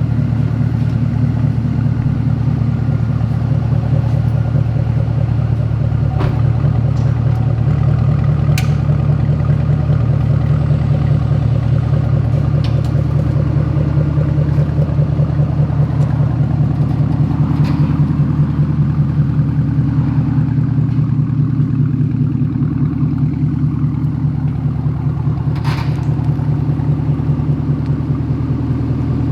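Chevrolet Camaro SS V8 idling steadily through an open, muffler-deleted exhaust, with a low even rumble. A few faint clicks are heard now and then.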